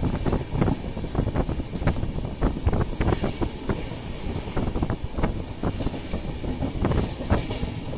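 Express train coach's wheels running on the rails, heard at an open coach door: a steady rumble with rapid, irregular clattering and knocks from the track.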